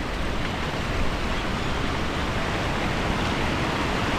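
Steady rushing of river water over the waterfalls, an even noise with no breaks.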